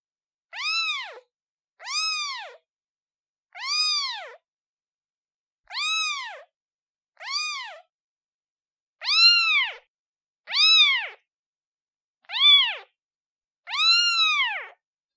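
A newborn kitten meowing repeatedly as it calls for its mother: nine high-pitched meows, each rising then falling in pitch, about one to two seconds apart, with silence between them.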